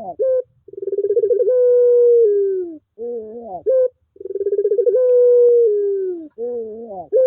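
Puter pelung dove cooing: two long, low, drawn-out coos, each opening with a quick quaver and stepping down in pitch at the end. Each coo is followed by a short wavering phrase that rises in pitch.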